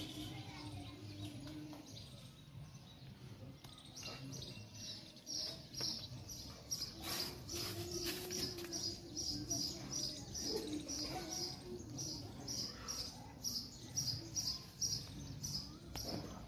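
A small bird chirping over and over, short high chirps at about three a second, starting a few seconds in.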